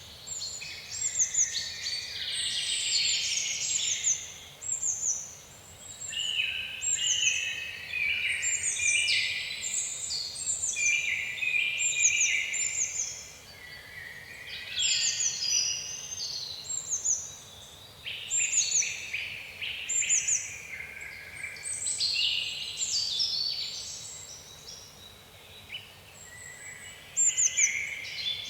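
Several songbirds singing and chirping together: many quick, high, falling whistles over busier chattering trills, overlapping with short pauses.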